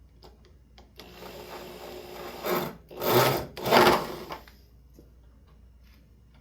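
Power drill driving a screw into wood: a whirring grind that builds for about a second and a half, then three loud surges about half a second apart before it stops.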